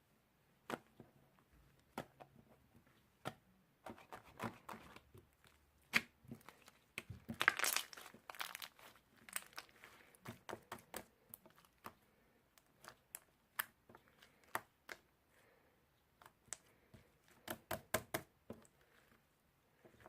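Irregular crinkling, tearing and sharp clicking handling sounds, densest in a cluster about halfway through, with quieter gaps between.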